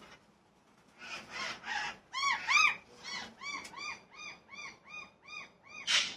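A bird calling: three harsh, rasping calls, then a run of about ten clear, arching notes repeated about three times a second, ending with one loud harsh call.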